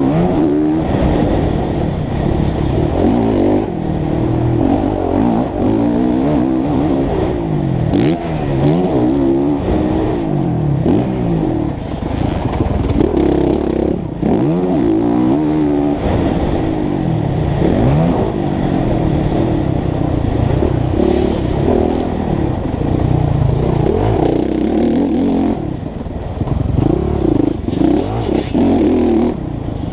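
Honda CRF450 four-stroke single-cylinder motocross engine being ridden hard, its pitch climbing and dropping every second or two as the throttle opens and closes. Heard from a helmet-mounted camera.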